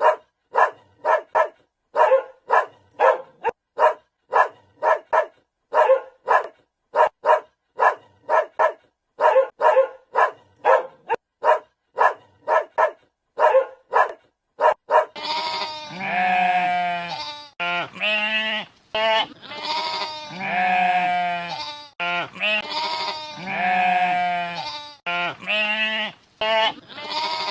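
A dog barking in short, sharp barks, about two a second, for roughly the first half. Then, after about fifteen seconds, bleating livestock take over, with a run of longer, wavering bleats about a second each, one after another.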